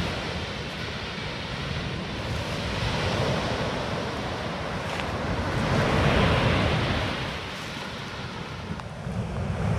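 Surf washing onto a beach, one wave swelling and breaking about six seconds in, with wind rumbling on the microphone.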